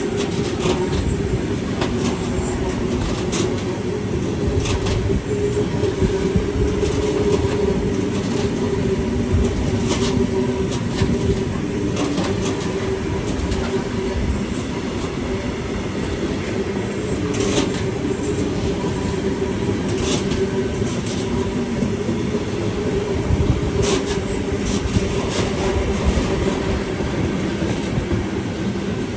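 A train running past at close range for the whole stretch: a steady rumble with a constant hum, broken by irregular clacks of wheels over rail joints.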